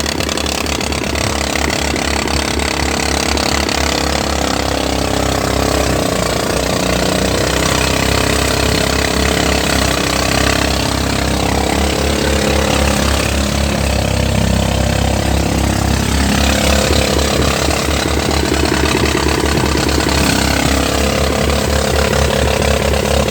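Engine of a rice threshing machine running steadily, with a regular low pulse.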